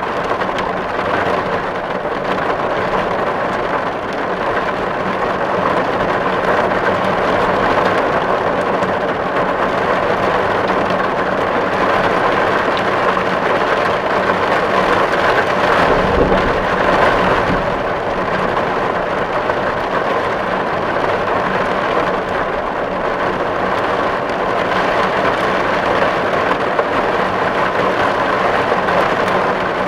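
Steady heavy rain drumming on a tin roof, a dense even patter of drops on metal, with a brief low rumble about halfway through.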